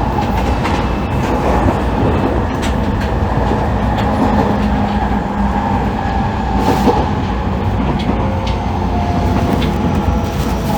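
Interior running sound of an E501-series electric train's motor car (MoHa E500-2): a steady rumble of wheels on rails with motor hum and occasional clicks from the track.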